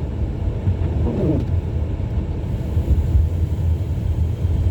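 Steady low rumble of a car's tyres and drivetrain, heard from inside the cabin while coasting at about 28 mph on a snow-covered road.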